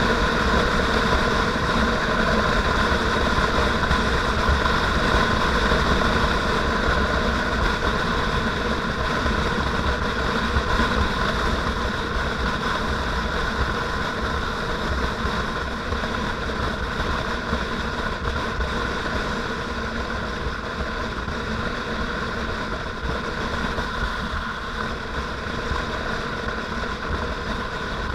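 Motorcycle engine running steadily while being ridden, with a constant drone and a low rumble beneath it. It eases slightly quieter about halfway through.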